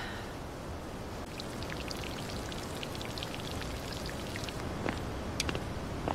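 Light rain: a steady hiss with scattered drops ticking irregularly on nearby surfaces, a few sharper drips near the end.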